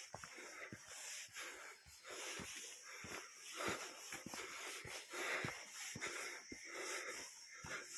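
Heavy, wheezy breathing close to the microphone, in swells about once a second, with scattered ticks of footsteps on a path while walking.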